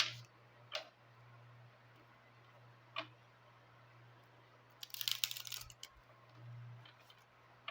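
Oracle cards being handled and drawn: a few light taps, then a brief papery rustle about five seconds in, over a steady low hum.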